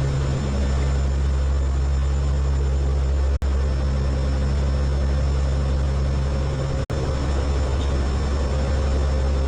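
Steady drone of a hurricane-hunter aircraft's engines, a low hum with a faint high whine, cut off for an instant twice where the footage is spliced.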